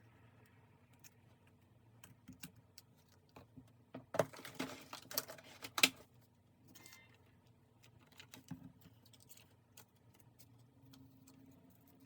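Light taps and clicks of small stationery items being handled on a desk during journal decorating, with a louder burst of rustling and crinkling about four seconds in, lasting about two seconds.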